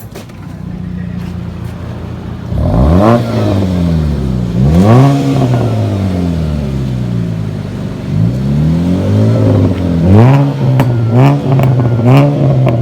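A car engine revved repeatedly, the pitch climbing and falling back each time: two longer revs in the first half, then a series of quicker throttle blips.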